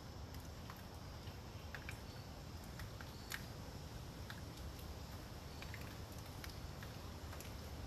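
Light rain after a tropical storm: scattered water drops ticking irregularly on leaves, about one or two a second with one louder drop about three seconds in, over a steady low rush of wind.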